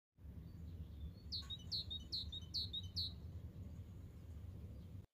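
A small songbird singing a short phrase of about six repeated high notes, each sliding down in pitch and followed by a short lower note, roughly three a second, over a low steady rumble.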